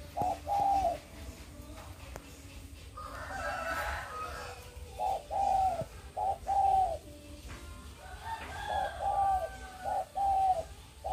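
A bird calling in short repeated notes, two or three at a time, with a pause of about four seconds in the middle.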